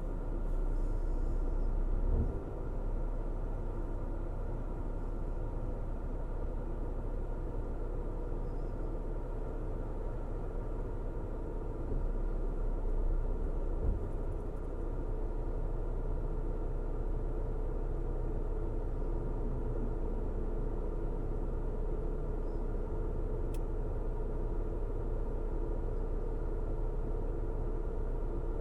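A car driving at a steady pace: a continuous low road-and-engine rumble with a faint steady hum over it. Two brief low bumps, about two seconds in and about fourteen seconds in.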